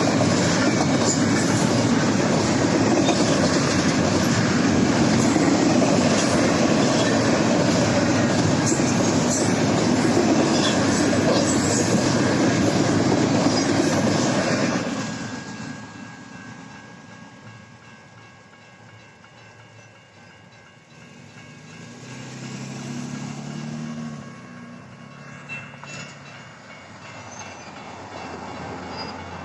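Doublestack intermodal freight cars rolling past at speed, loud and steady, their wheels clacking over the rail joints. About halfway through the sound drops off sharply as the end of the train goes by, leaving a much quieter background.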